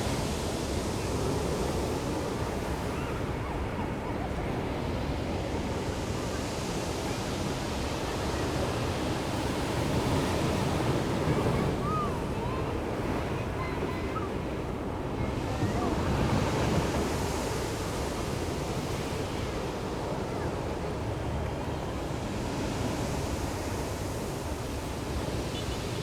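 Ocean surf washing steadily onto the shore, swelling louder twice as waves break, about ten seconds in and again near two-thirds of the way through.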